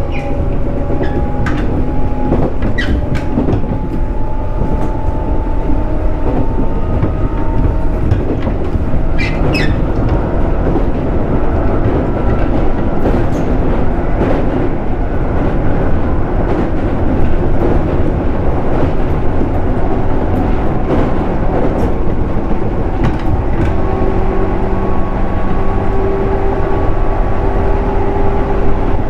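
Running sound of a JR East 211 series electric train: a steady loud rumble of wheels on rail, with motor and gear tones slowly shifting in pitch as the speed changes, and a few sharp clicks in the first ten seconds.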